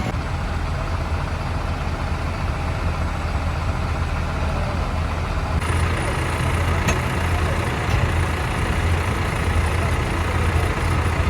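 Tractor engines idling with a steady low hum.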